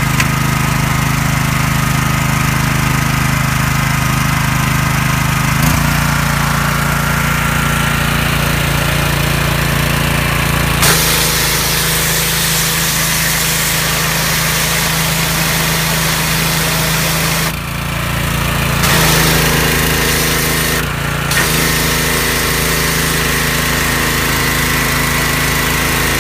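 Small engine of an MSW1511S engine-driven power sprayer running steadily just after starting, its note shifting about six seconds in. From about eleven seconds a loud hiss of spray jetting from the nozzle joins it, breaking off briefly twice.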